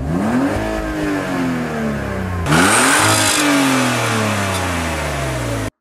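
Car engine revving: two throttle blips, each rising quickly in pitch and then falling slowly back down. The second comes about two and a half seconds in and is brighter, with more hiss. The sound cuts off abruptly near the end.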